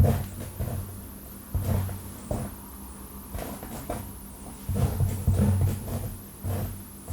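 Long fingernails scratching and rubbing fast through hair over a scalp close to the microphone: irregular strokes, with low rubbing thumps and brief crackles.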